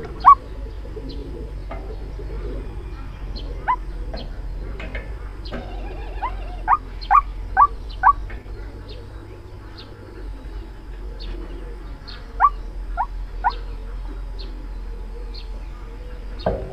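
White-breasted waterhen calling, the lure call used to draw waterhens into a trap: short, sharply rising notes, two single ones and then quick runs of about five and three. A steady low hum runs underneath.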